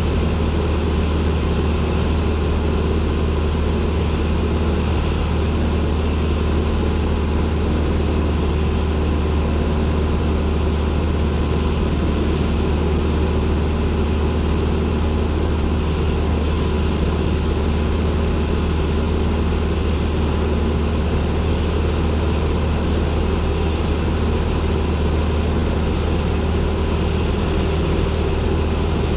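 Cessna 172N's four-cylinder Lycoming engine and propeller running steadily, a constant loud drone with a deep hum, heard inside the cabin.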